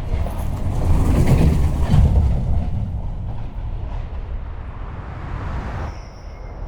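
Train sound effect: a loud, low rumble of a train rolling along that swells over the first two seconds and then slowly fades. A short, faint high tone sounds near the end.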